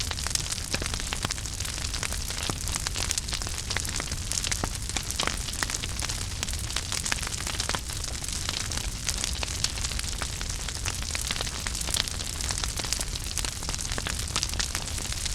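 Fireplace wood fire burning with a steady hiss and frequent sharp crackles and pops throughout.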